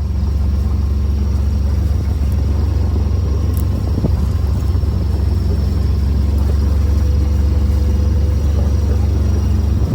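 A sailboat's engine running at a steady speed, giving a continuous low drone with a faint steady hum above it.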